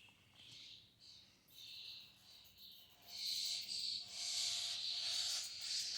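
Small bird calling in high-pitched chirps, a few short ones at first, then louder, near-continuous calling from about halfway through, as from a fledgling out of its nest.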